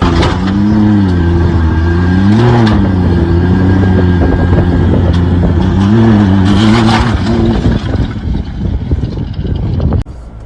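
A vehicle engine running loud, its pitch rising and falling several times as it is revved. It cuts off suddenly near the end.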